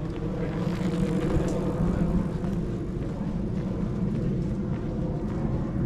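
A steady engine rumble from a running motor vehicle, a constant low hum that holds throughout.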